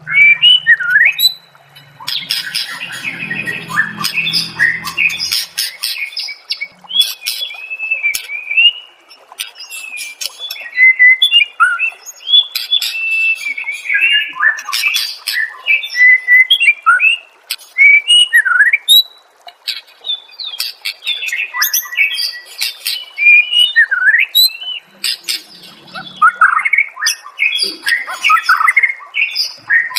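White-rumped shama (murai batu) singing a long, varied song: rapid whistled notes sliding up and down, interspersed with sharp clicks and harsh chattering notes. This is the kind of masteran recording played to train contest songbirds.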